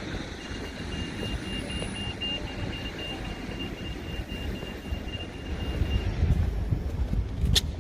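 Street ambience with wind buffeting the microphone and a rapid, high-pitched electronic beeping at one steady pitch that stops about six seconds in. The wind rumble grows heavier after that, and there is a sharp click near the end.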